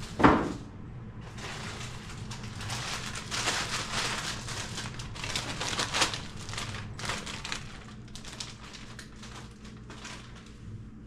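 A sharp knock, then plastic freezer bags and frozen food packages crinkling and rustling as they are handled and sorted, over a low steady hum.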